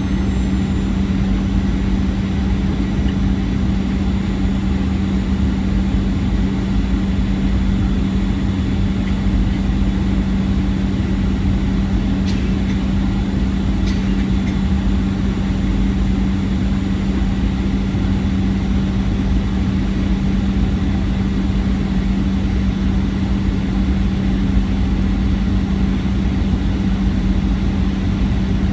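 Airliner cabin noise: a steady loud engine drone and rumble, with a strong constant low hum.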